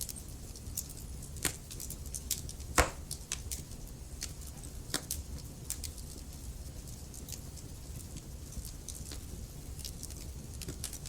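Wood fire burning in a fireplace: a steady low rumble with irregular sharp crackles and pops from the logs, the loudest pop about three seconds in.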